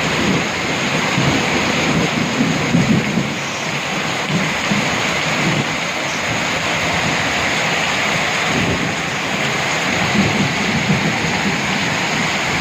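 Heavy rain pouring steadily, with low rolls of thunder rumbling through it twice, a couple of seconds in and again about two-thirds of the way through.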